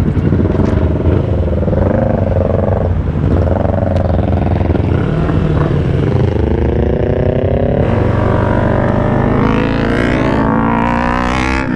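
Yamaha R3's parallel-twin engine revving loudly through an Orion aftermarket exhaust. Its pitch rises and falls several times, with a long climbing rev near the end.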